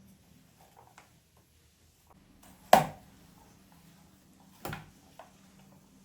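Household objects being handled during cleaning: a sharp knock about three seconds in and a softer one near five seconds, with a few small clicks between them.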